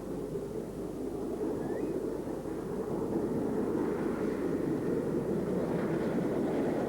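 LNER V2 class steam locomotive running with its train, a steady rumble that grows gradually louder as it approaches.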